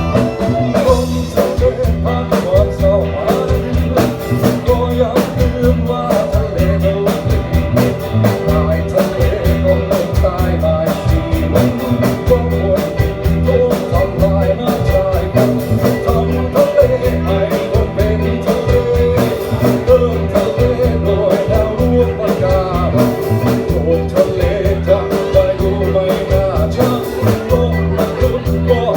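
A band playing a song, with a steady drum-kit beat under bass and a wavering guitar or vocal melody line.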